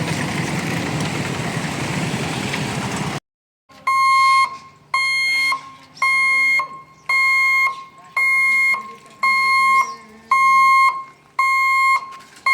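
Steady road-traffic noise, then after a sudden cut about three seconds in, a level-crossing warning buzzer at a rail gate beeping evenly, one high electronic tone about every second, around eight times.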